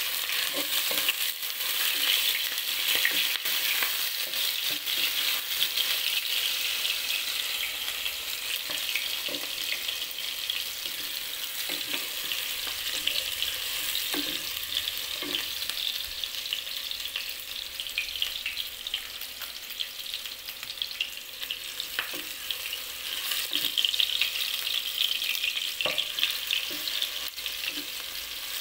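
Chopped garlic sizzling in hot oil in a speckled-enamel pot, stirred with a spatula, with now and then a short tap or scrape of the spatula on the pot. The sizzle is strongest at the start and swells again about three-quarters of the way through.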